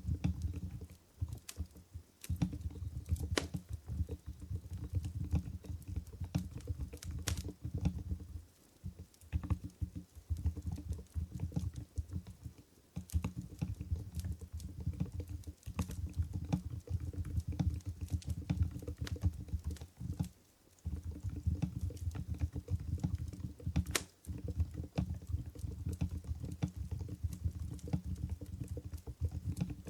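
Mstone Groove GV10 electro-capacitive keyboard with silent Coral 45 g switches being typed on quickly: a dense run of soft, muffled keystrokes, broken by brief pauses about 8, 12 and 20 seconds in. A few sharper clicks stand out among them.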